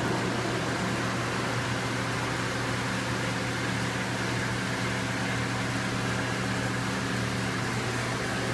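Garb-el GHV-1000 10-horsepower hammermill-type garbage disposal running, a steady even hum.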